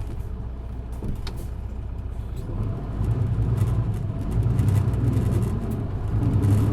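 Isuzu Erga PJ-LV234N1 city bus's inline-six diesel engine running under way, heard from inside the cabin; the engine drone grows louder about three seconds in as the bus pulls harder, with scattered light clicks and rattles.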